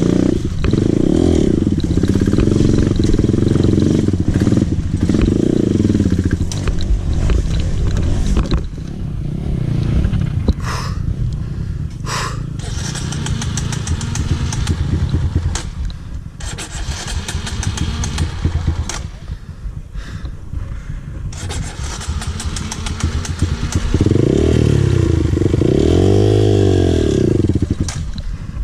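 Dirt bike engine revved in short blips several times, then running lower and quieter for a long stretch, with a long rev up and back down near the end.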